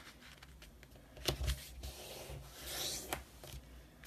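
Card stock being handled and slid across a craft desk, with soft rubbing and two sharp clicks, one about a second in and one near three seconds.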